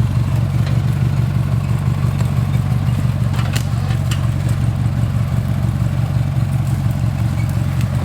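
Craftsman LT4000 lawn tractor's small vertical-shaft engine running steadily, with a couple of brief knocks about halfway through.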